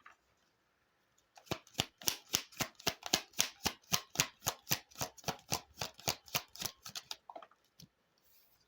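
A deck of tarot cards being shuffled by hand: a quick, even run of card slaps, about four a second, that starts about a second and a half in and stops about a second before the end.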